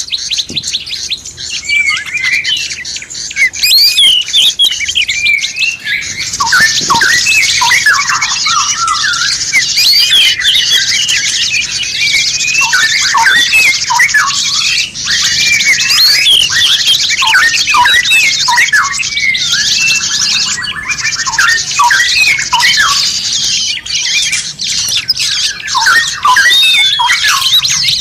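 A dense chorus of many songbirds chirping, whistling and squawking over one another in quick, overlapping calls. A steady hiss sits under the calls from about six seconds in.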